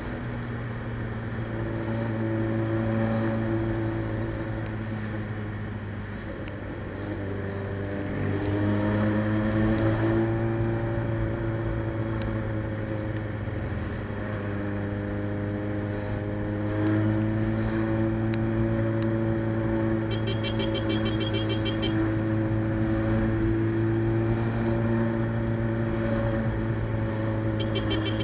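Suzuki Bandit 600's carbureted inline-four with a straight-through exhaust, running at a steady moderate speed while riding. Its pitch rises and falls gently with the throttle.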